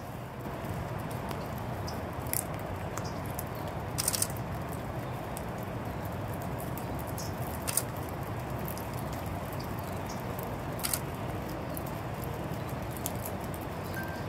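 Steady patter of rain, with a few scattered light clicks and crackles.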